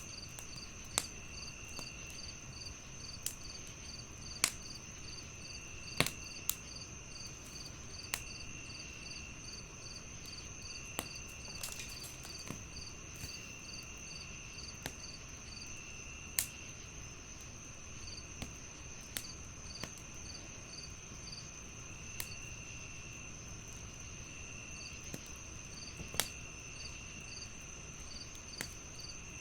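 Crickets chirping steadily in several layers: a constant high trill, a quick regular pulsing and a lower trill that comes and goes. Scattered sharp pops and crackles from a wood fire break in every second or two.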